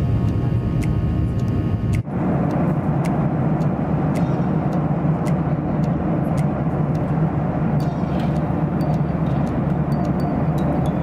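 Background music for about the first two seconds, then a sudden cut to the steady rushing drone of a Boeing 737-800's cabin, the engines and airflow heard from inside.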